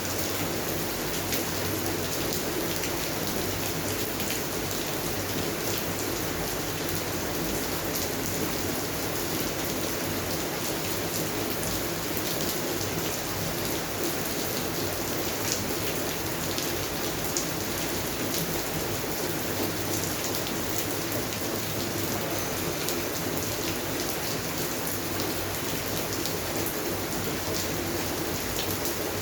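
Steady rain falling on garden plants and surfaces, a dense even patter with many individual drops ticking through it.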